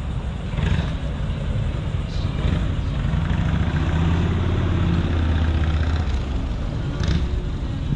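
A car engine running, with a low steady note that grows louder for a few seconds in the middle and then eases.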